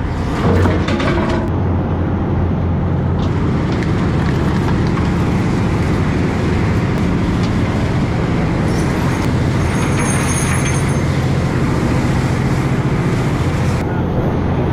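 Prawn trawler's engine running steadily under way, a constant low drone with a rushing noise over it.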